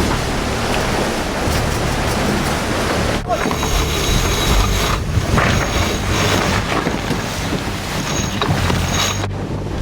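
Wind buffeting the microphone over water rushing past the hulls of a sailing catamaran under way, with two brief drop-outs, about three seconds in and near the end.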